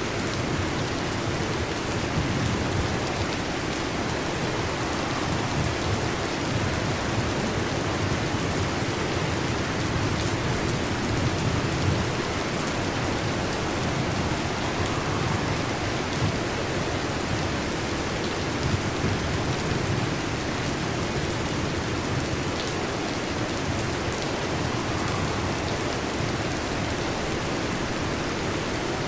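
Heavy rain falling steadily on a metal roof, an even hiss with no break.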